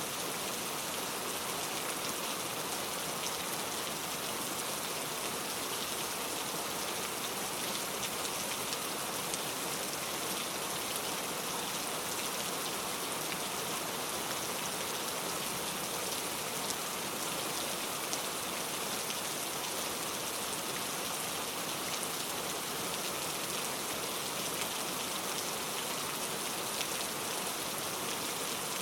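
Steady heavy rain falling, an even hiss with many fine drop patters and no thunder.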